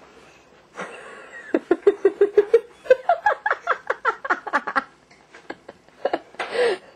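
A toddler giggling: a quick run of short, high-pitched laughing sounds, about five a second, lasting around three seconds, then a short breathy squeal near the end.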